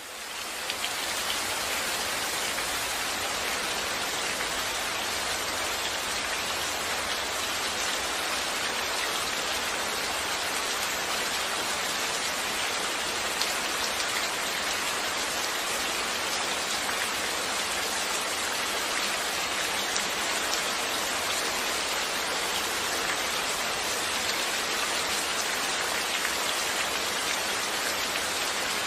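Steady rainfall: a dense, even hiss of many drops hitting surfaces, fading in over the first second and then holding constant.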